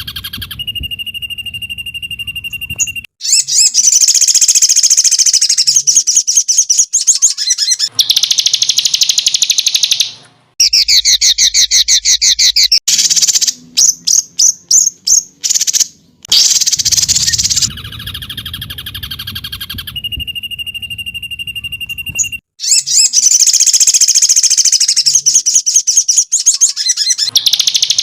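Songbird song used as a masteran (training recording): loud, high-pitched rapid trills and chirp series with a few held whistles, in separate phrases that start and stop abruptly.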